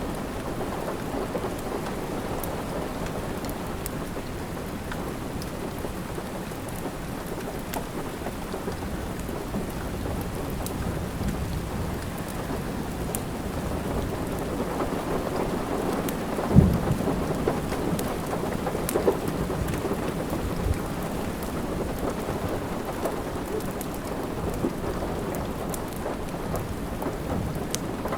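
Steady rain with a low rumble beneath it, and a wood fire crackling in a fireplace, with scattered sharp crackles and pops. A louder low thump comes about sixteen seconds in.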